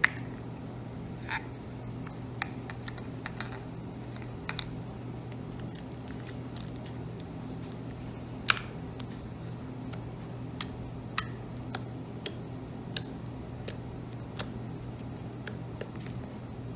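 Homemade slime being handled and pushed into a small plastic container: scattered sharp clicks and taps of the plastic over a steady low hum.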